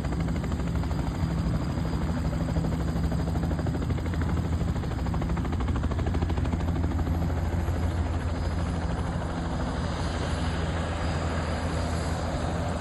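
Helicopter running steadily, its rotor beating fast over a low engine drone, with a thin high whine above.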